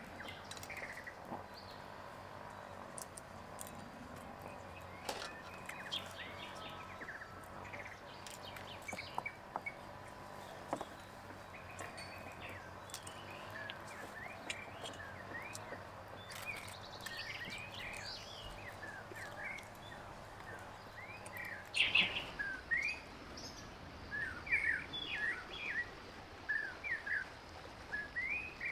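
Small birds chirping in short, quick calls over a steady outdoor background, with the chirping growing busier and louder in the last third. A few sharp clicks come in the first several seconds.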